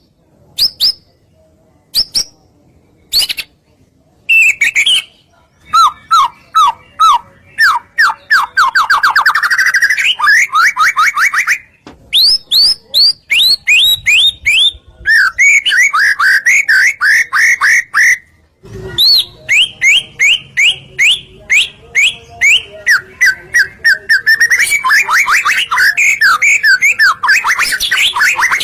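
White-rumped shama singing: a few single whistled notes at first, then long phrases of rapid repeated notes, some sweeping up and others falling, with short breaks between phrases.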